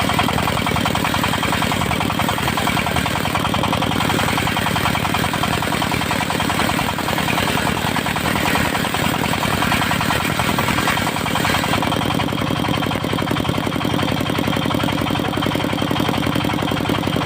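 Engine of a portable circular sawmill running steadily at an even speed.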